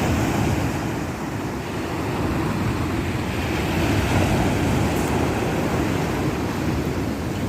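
Sea surf washing on the shore, a steady rushing noise, with wind buffeting the microphone.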